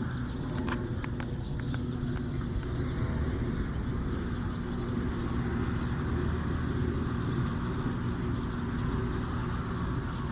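An aircraft engine running steadily with an even low drone, and a few sharp clicks in the first couple of seconds.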